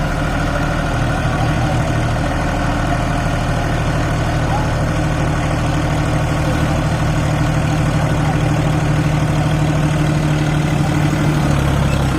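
Tractor diesel engine running steadily at low revs, its pitch dipping slightly near the end.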